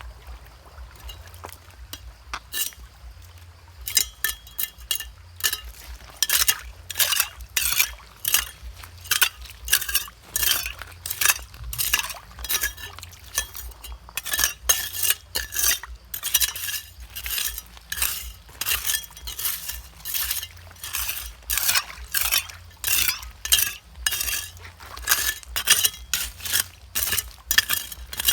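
Repeated sharp clinking strikes, a metal tool hitting stone, a few a second once they get going about four seconds in.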